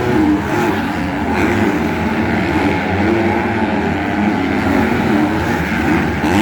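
Motocross bikes racing on the track: several engines running at once in a steady drone, their pitches rising and falling.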